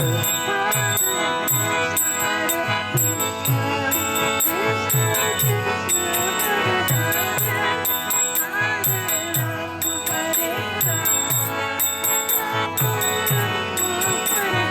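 Kirtan accompaniment between chanted lines: a mridanga drum beats a steady rhythm of low strokes that slide down in pitch, karatalas hand cymbals clash along with it, and a harmonium sustains chords.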